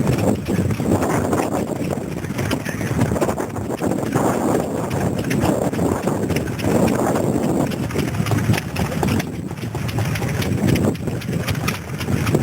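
Vintage stationary engines running, a continuous rapid knocking and chuffing clatter.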